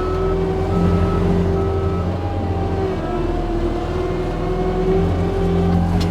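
John Deere 335P skid steer's diesel engine running steadily under load while forestry mulching, with an intermittent beeping in the first couple of seconds that fits a reverse alarm. A few sharp cracks near the end.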